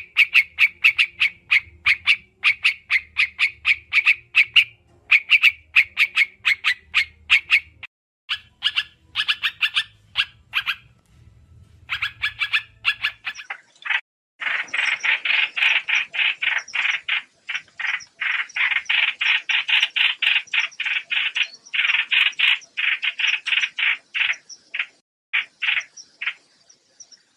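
Recorded lure calls of the trao trảo bird: fast trains of short, repeated chirping notes, several a second. A faint low hum runs under the first half. After a brief pause about halfway through, the notes come denser and coarser.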